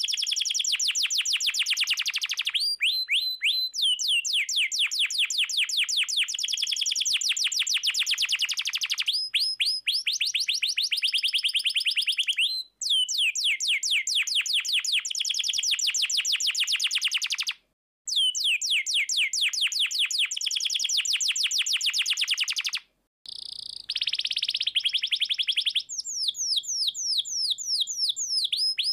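Domestic canary in full song: long fast trills of rapidly repeated notes and downward-sweeping rolls, in long phrases broken by a few brief pauses.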